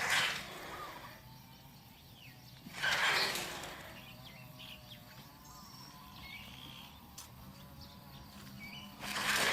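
Harsh, raspy bird calls, about three loud calls a few seconds apart, with faint short chirps between them.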